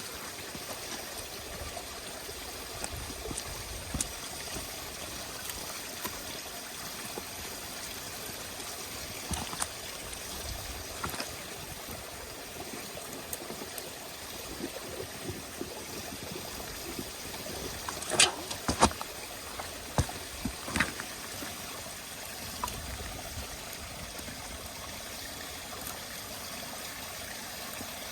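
Wood campfire burning with a steady hiss and scattered crackles, and a short run of louder snaps and pops a little past the middle.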